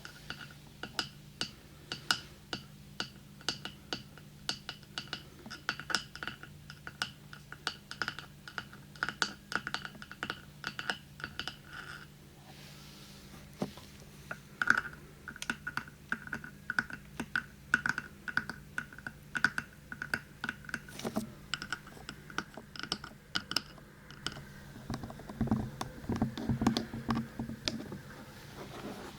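Fingernails tapping quickly and lightly on a hard object that rings with a short, clear pitch after each tap. The tapping stops briefly about twelve seconds in, then resumes on a ringing tone of a slightly different pitch, and gives way to lower rubbing and handling sounds near the end.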